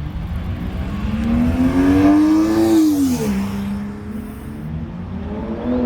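Sports car engine accelerating hard: the revs climb for about three seconds, then drop sharply at an upshift, hold lower, and begin climbing again near the end.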